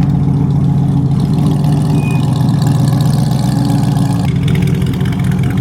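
2020 Chevrolet Corvette C8's 6.2-litre V8, with its mufflers removed for an aftermarket exhaust, idling steadily; its note shifts slightly about four seconds in.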